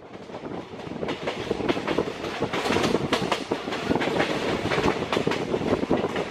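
Wheels of a moving passenger train clicking and clacking over rail joints, with a steady running rumble and rattle, heard from on board. The sound fades in over the first second.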